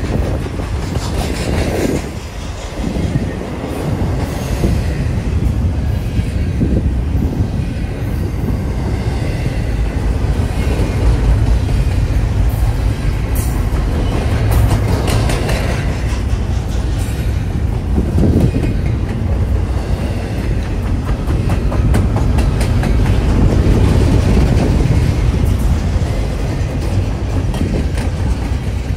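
Double-stack intermodal container train's well cars rolling past at close range: a steady low rumble of wheels on rail with rapid clicking as the wheels pass over rail joints.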